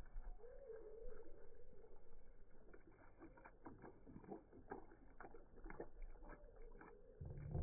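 Ducks eating, the sound slowed down: a low, drawn-out call near the start, then a run of irregular clicks from their bills, and a low thump near the end.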